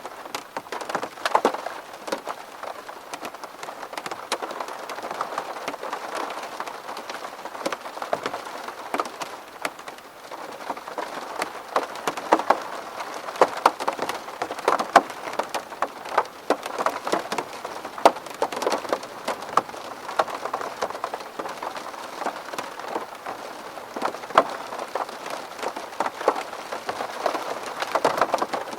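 Steady rain falling on window glass, with many individual drops ticking sharply against it over a constant wash of rain.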